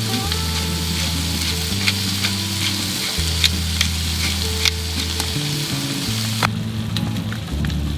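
Chop steak frying in a pan: a steady sizzle with scattered spattering pops, which drops away about six and a half seconds in. Background music with held low notes plays underneath.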